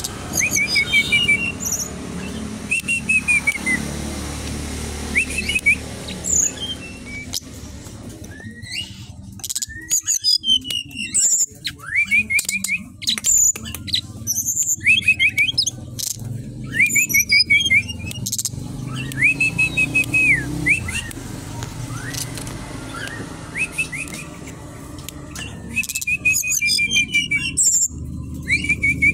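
Brown-chested jungle flycatcher (sikatan rimba dada coklat) singing persistently, phrase after phrase of quick, clear chirping notes with short gaps between.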